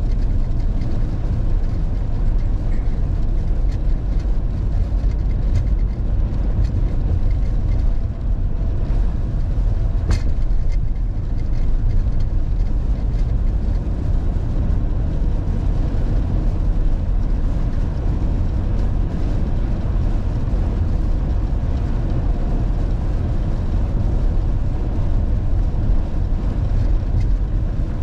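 Steady low rumble of a vehicle on the road, engine and road noise, with a single sharp click about ten seconds in.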